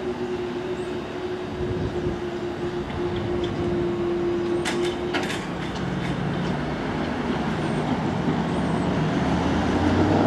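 Electric train running away down the line, with a steady humming tone that stops about five seconds in, followed by a few sharp clicks. Car engines then grow louder as road traffic moves over the level crossing.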